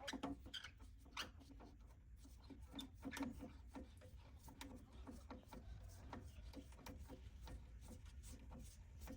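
Faint clicks, taps and rubbing from small handling work, irregular and scattered throughout, over a low steady hum.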